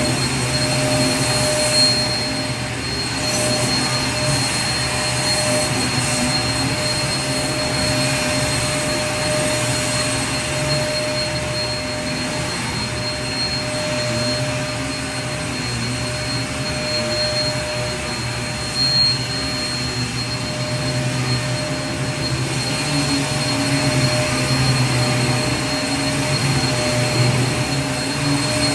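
Vacuum cleaner running steadily, an even rushing noise with a constant high whine over a low hum.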